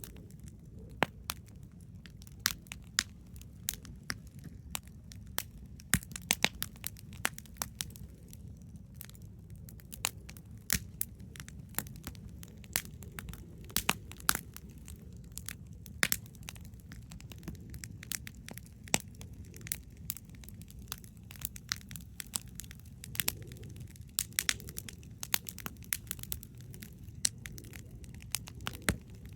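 Wood campfire crackling, with sharp irregular pops and snaps over a low steady rumble.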